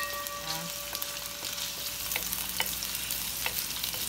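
Sliced ginger and crushed garlic sizzling in hot olive oil in a stainless steel wok, stirred with a wooden spatula that clicks and scrapes against the pan now and then. A faint steady tone sounds under the sizzle for the first half.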